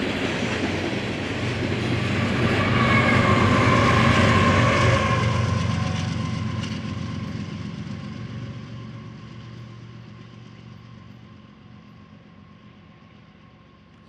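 Freight train cars rolling past on the rails, wheels clattering and rumbling, loudest about four seconds in and then fading steadily as the train moves away.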